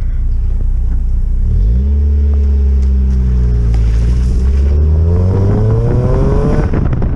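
Mazda Miata's four-cylinder engine through a new Roadster Sport 4 aftermarket exhaust, pulling under acceleration: the revs step up about a second and a half in, ease slightly, then climb steadily toward the end. The exhaust note has no drone.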